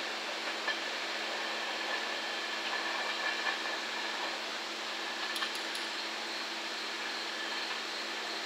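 Empty Koki container flat wagons of a freight train rolling away over the tracks: a steady rumble and hiss with faint steady tones, and a few faint clicks about five seconds in.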